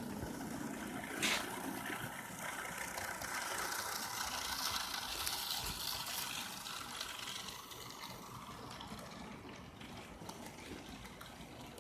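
Model train running on its track, a steady rattling hiss that swells and then fades away, with one sharp click about a second in.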